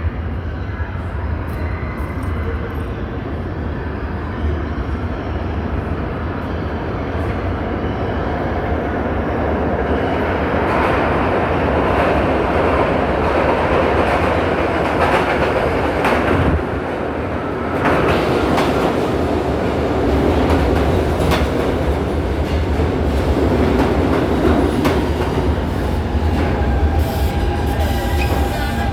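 New York City subway train running through an underground station: a steady rumble of steel wheels on rail with clicking over the joints, growing louder about a third of the way in, with a brief dip about halfway through. A thin whine comes in near the end.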